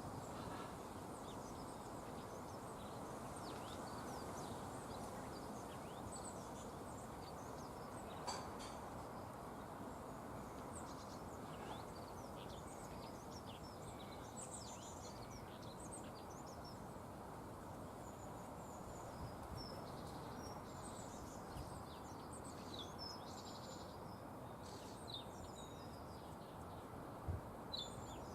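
Small garden birds chirping and twittering in short high calls over a steady low background hum, with a few short taps, the loudest two near the end.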